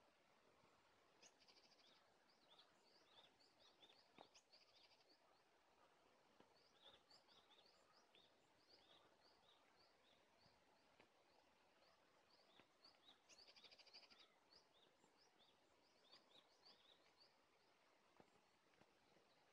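Faint birds chirping: a steady run of short high chirps, two or three a second, with three brief rapid trills, over a quiet outdoor hiss.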